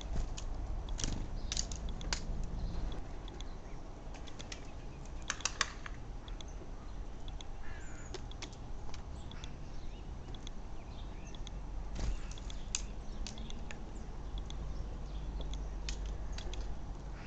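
Birds pecking and scrabbling at a garden feeder: irregular sharp taps and clicks, some in quick clusters, with one faint short chirp about eight seconds in. A low steady rumble runs underneath.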